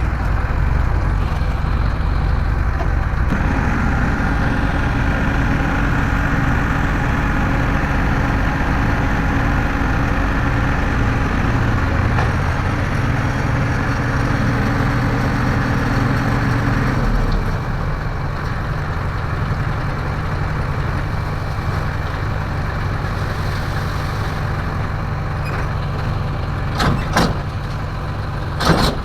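Heavy diesel engine of an earthmoving machine running steadily. From about 3 s in to about 17 s a higher, steadier tone joins as it works harder, then it drops back. Two sharp knocks come near the end.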